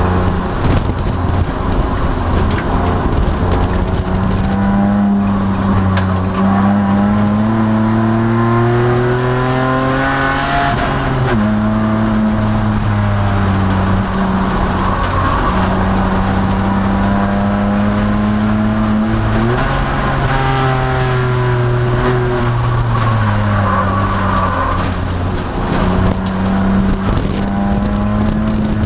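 2002 Nissan Maxima race car's 3.5-litre V6 under hard acceleration, heard from inside the cabin. The engine climbs in pitch, drops once about eleven seconds in on an upshift, pulls up again, then falls away for several seconds after a downshift before climbing again near the end.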